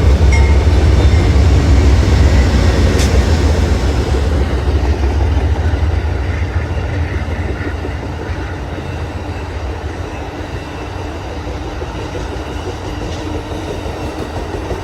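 Amtrak California Zephyr passenger train passing, led by three GE P42 diesel locomotives: a heavy low rumble, loudest over the first few seconds, then fading steadily as the train rolls on, with a few sharp wheel clicks near the start.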